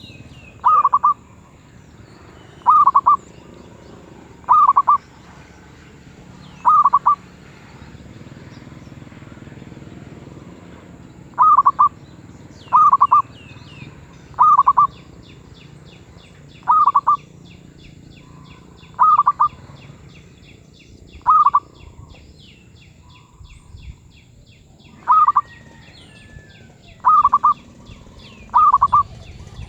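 Zebra dove (merbuk) cooing: short rolling coos repeated about every two seconds, with a gap of several seconds partway through. The bird has a medium-pitched voice.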